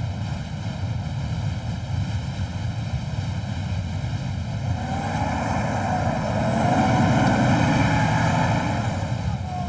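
Strong wind blowing in a steady low rush, building up about halfway through, with faint whistling tones that waver up and down.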